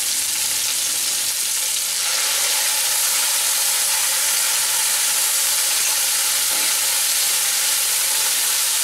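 Hot oil sizzling in a kadai as onions and tomatoes fry, with a wet ground paste spooned in and stirred with a wooden spatula. The steady sizzle grows a little louder about two seconds in.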